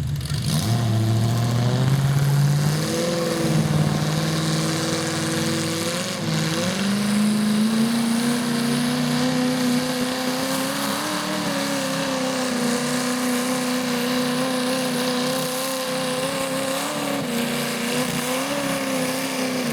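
Garden tractor engine run at high revs under load, pulling a sled down the track. Its pitch climbs in steps over the first seven seconds, then holds steady with small wavers.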